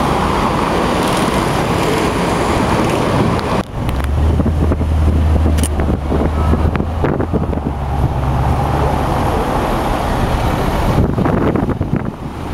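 Supercar engines and exhausts on the road, in edited segments. The sound changes abruptly a little under four seconds in to a deep, steady engine drone that lasts about six seconds.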